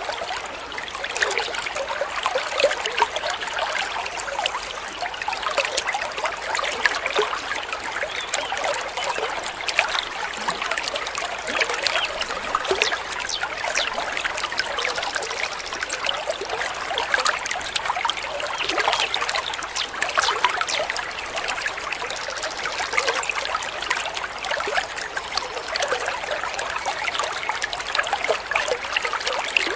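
Running water trickling and babbling steadily, a continuous patter of small splashes.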